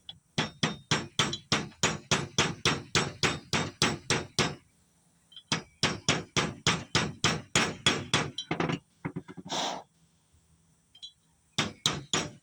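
Rapid light hammer taps, about four a second, driving an HX35W turbo's journal bearing down into its bore until it seats: two long runs of taps with a short pause between, then a few more near the end.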